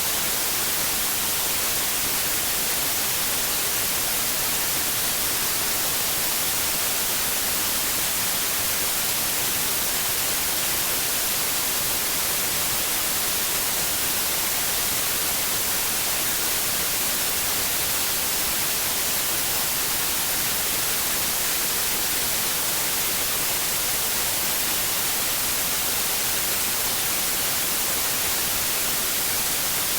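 Steady white noise: an even, unchanging hiss, strongest in the high frequencies, played as a sleep aid for babies.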